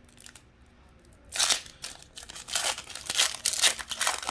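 A trading-card pack wrapper being torn open and crinkled: a run of rustling, crackling tears that starts about a second in.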